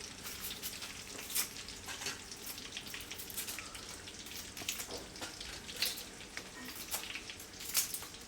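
Marinated chicken pieces frying in hot oil: a steady sizzle with scattered sharp crackles and pops.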